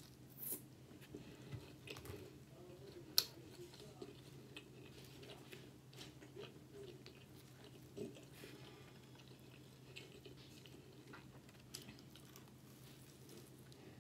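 A person chewing food close to the microphone, quietly, with scattered soft wet mouth clicks.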